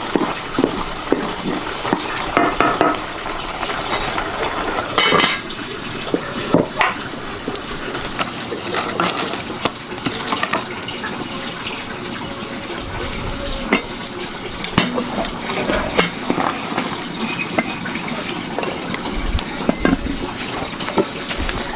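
Water splashing and pouring, with scattered clinks and knocks of dishes.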